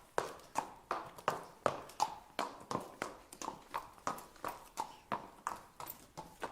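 Horse walking: an even clip-clop of hoofbeats, about three strikes a second.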